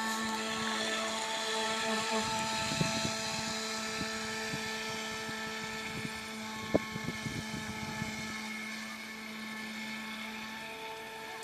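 Electric propeller motor of a remote-controlled carp bait boat running with a steady hum, broken by a few short knocks about three and seven seconds in.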